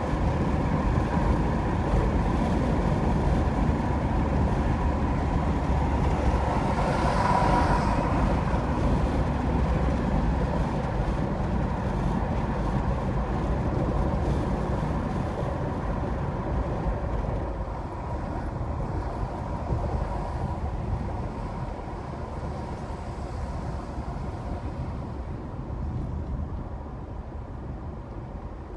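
Road noise of a car driving on a highway: a steady rumble of tyres and wind with a faint steady tone above it. It swells briefly about a quarter of the way in, then gradually eases lower.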